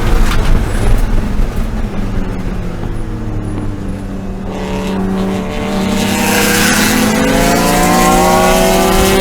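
BMW E36 M3 race car's straight-six engine: a rough, lower rumble for the first few seconds, then from about halfway through a steady rising note as it accelerates up through the revs.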